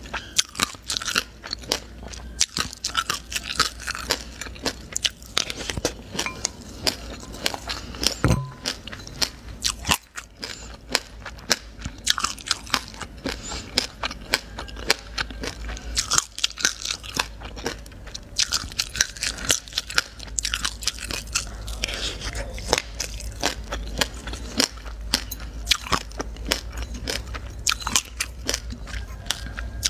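Mouth-close chewing of a mouthful of black and white sesame seeds: a fast, continuous run of small crisp crunches and crackles.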